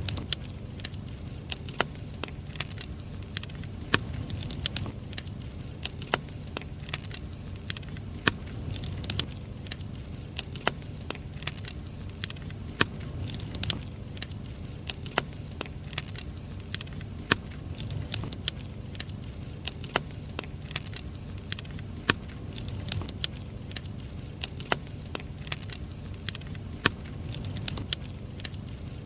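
Firewood burning in an open fire, crackling with sharp irregular pops and snaps, several a second, over a low steady rumble.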